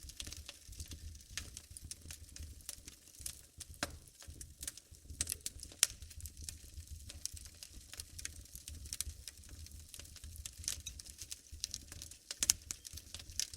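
Wood fire burning in a fireplace: irregular crackles and sharp pops over a low rumble of the flames, with a few louder pops about six seconds in and again near the end.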